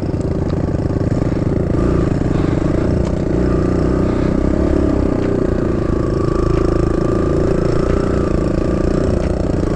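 Kawasaki KLX110 dirt bike's small air-cooled four-stroke single-cylinder engine running steadily while riding a trail, its pitch holding fairly even.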